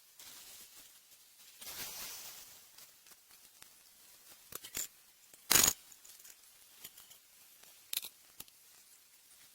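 Rustling and handling noises with a few light clicks and one loud, sharp knock a little past halfway.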